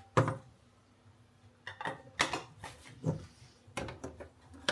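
Several light knocks and clunks of hard plastic being handled, spread through a few seconds: the coffee machine's water tank being refilled and fitted back in place.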